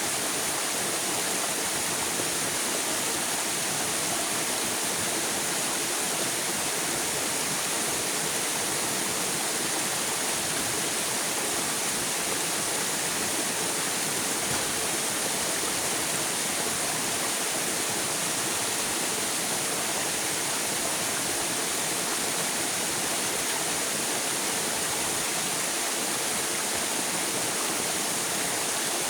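River water flowing and rushing, a steady even hiss with no pauses or separate splashes.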